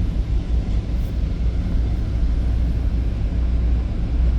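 Steady low rumble of a commuter train in motion, heard from inside the passenger car.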